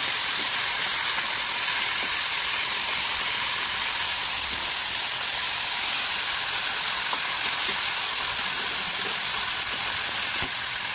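Whole chicken and chicken feet sizzling in hot oil in a wok: a steady hiss, with a light tap of tongs against the pan near the end.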